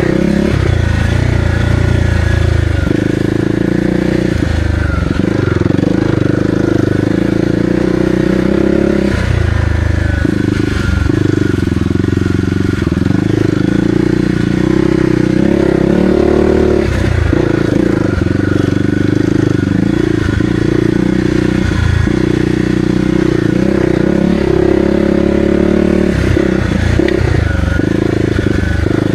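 Kawasaki KLX300R's single-cylinder four-stroke engine running while the bike is ridden on a trail, its note rising and falling every few seconds as the throttle opens and closes.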